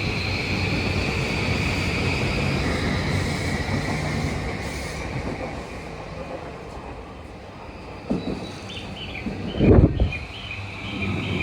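JR East E235 series Yamanote Line train pulling into the platform and slowing, with a high whine over its running noise. A brief, loud low thump comes about ten seconds in.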